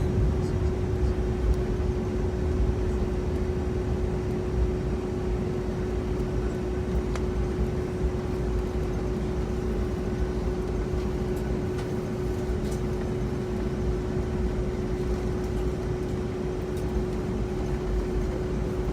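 Boeing 757-200 cabin noise while taxiing: a steady rumble of the engines at idle and the air system, with one constant hum and a few faint clicks.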